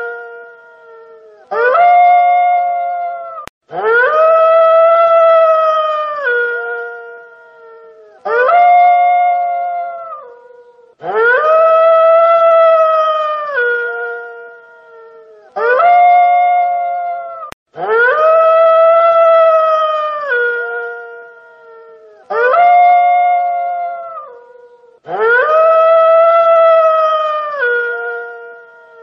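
A wolf howling: long, steady howls repeated about eight times, each dropping a step in pitch at its end.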